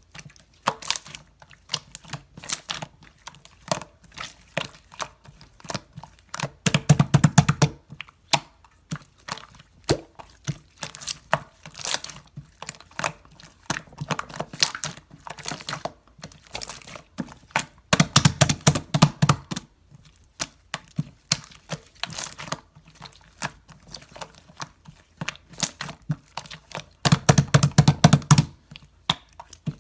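Slime being pressed and stretched by hand, giving dense crackling and popping clicks, with three louder squelching bursts spread through.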